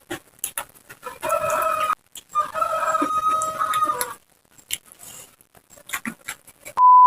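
A rooster crowing: one long crow, broken briefly about two seconds in, among scattered short clicks. A short, loud, steady beep sounds right at the end.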